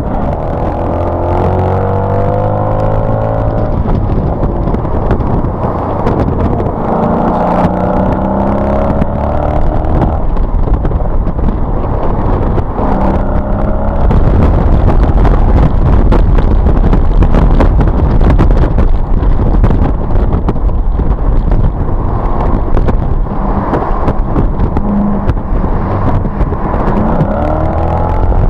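A Mercedes-Benz SLK's engine heard from on board at track speed, its revs climbing in several rising sweeps with breaks between them. A constant heavy rumble of wind and road noise runs underneath.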